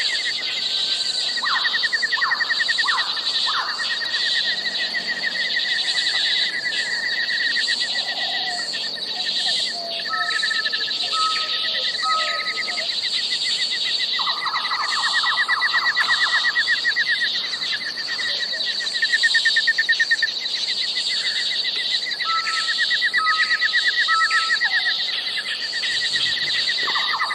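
Bird calls: a steady, fast-pulsing high chirping runs throughout. Over it come louder short whistles, a run of three about ten seconds in and again about twenty-two seconds in, with a longer held note in between. This is typical of a Nias hill myna calling.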